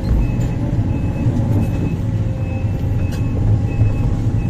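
Heavy diesel earthmoving machine running steadily with a low rumble, while a back-up alarm beeps in a regular rhythm, a little under twice a second.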